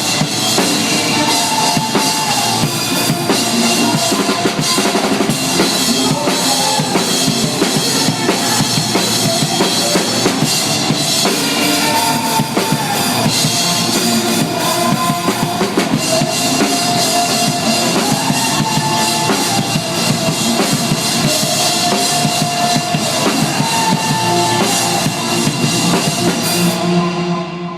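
A band playing a song live, with the drum kit loud and up front: bass drum and snare driving a steady beat under guitars. Near the end the cymbals stop and the sound dies away.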